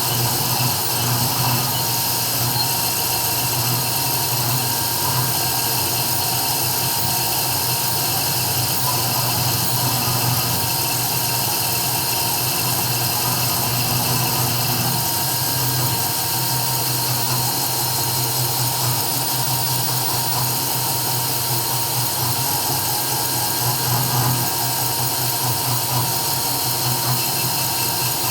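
CNC 3040 desktop router engraving: the spindle motor runs with a steady high whine while the cutter works the material.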